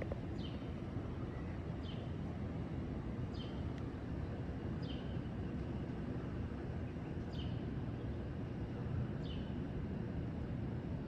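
A bird calling with short, high, downward-slurred chirps, repeated about every one to two seconds, over a steady low outdoor rumble.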